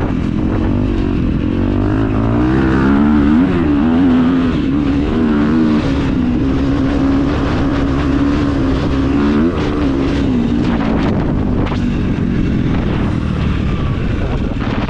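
KTM 350 EXC-F single-cylinder four-stroke engine with an Akrapovič exhaust, running continuously and loudly. Its pitch holds fairly steady, with small rises and dips as the throttle changes.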